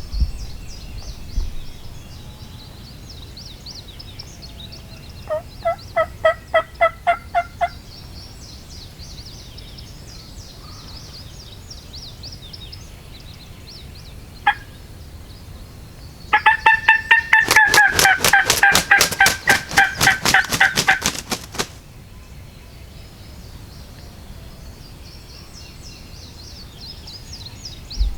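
Wild turkey calling: a run of about nine evenly spaced yelps, then a long, dense rattling gobble lasting about five seconds. Faint high chirping of small birds or insects goes on underneath.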